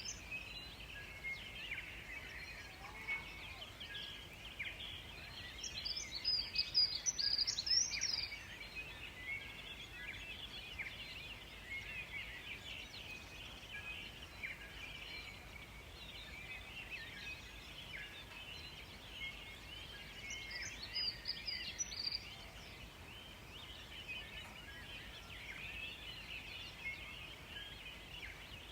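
Forest songbirds: a continuous chorus of small birds chirping, with one louder trilling song phrase about six seconds in and again about twenty seconds in.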